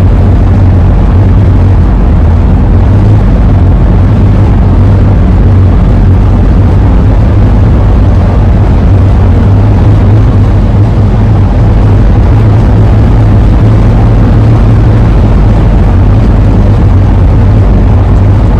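A 2001 Ford E-350 camper van driving at a steady speed: a loud, constant low drone of engine, tyres and wind.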